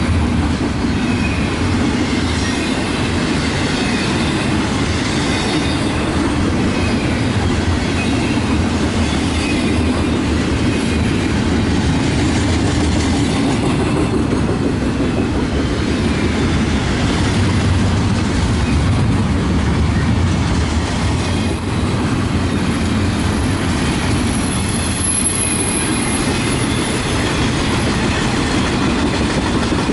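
Union Pacific double-stack intermodal train's container well cars rolling past, a steady rumble of steel wheels on rail.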